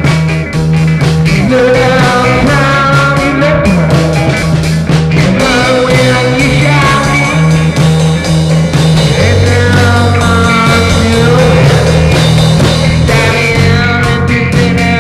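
Instrumental passage of a psychedelic rock song: a steady bass line and drum beat under sustained melodic lines.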